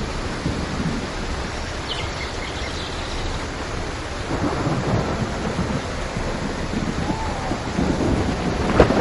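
Steady rain falling with low rolling thunder rumbling under it; the thunder swells louder near the end.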